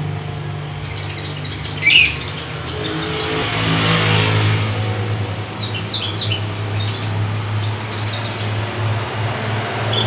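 Small caged birds, a konin (sunbird) and a lovebird, chirping in short high calls. The loudest is a sharp sweeping call about two seconds in. A steady low hum runs underneath.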